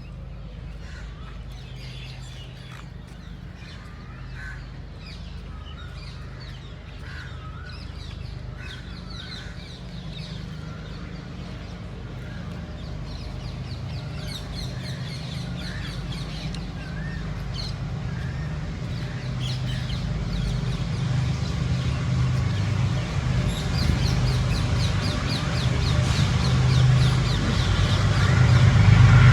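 Birds calling again and again in short notes over a steady low rumble, which grows louder towards the end.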